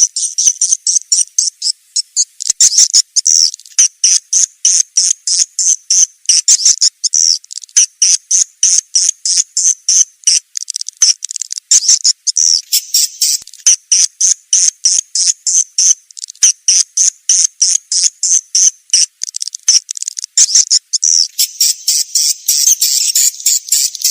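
Swiftlet calling track: a loud, rapid run of short, high, buzzy chirps repeated several times a second, merging into denser twittering near the end. This is a lure call played to draw swiftlets into a nesting house.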